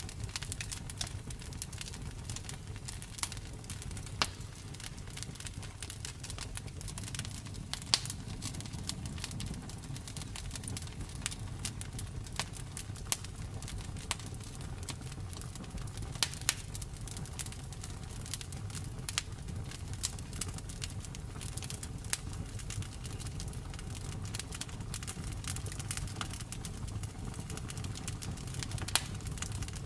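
Wood fire in a fireplace crackling: frequent sharp pops and snaps over a steady low rumble of the flames, with one louder pop about eight seconds in.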